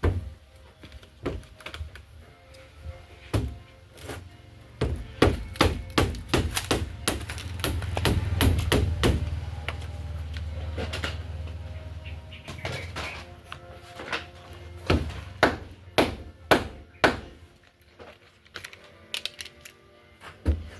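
Irregular knocks and thuds of hand carpentry work, with a low rumble in the middle, over faint background music.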